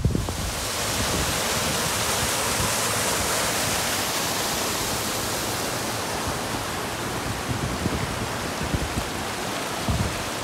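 Waterfall rushing: a steady hiss of falling water that begins suddenly and holds at an even level.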